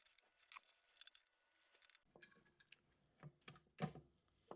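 Faint, scattered clicks and taps of small electrical parts and wires being handled on a workbench, with a slightly louder tap a little before the end.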